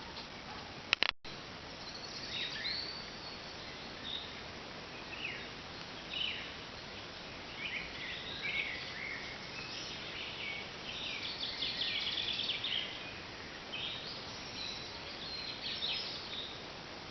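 Small birds singing in short, repeated chirping phrases over a steady background hiss, with a sharp click and a brief dropout about a second in.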